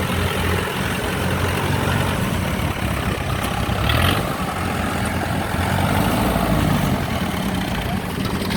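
Rice combine harvester's diesel engine running steadily, with a short higher-pitched noise about four seconds in.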